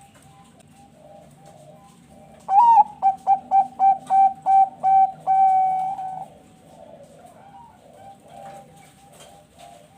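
Zebra dove (perkutut bangkok) singing its cooing song. About two and a half seconds in comes a loud rising opening note, then a quick run of short coos, then one longer held coo that ends around six seconds. Other doves coo softly in the background throughout.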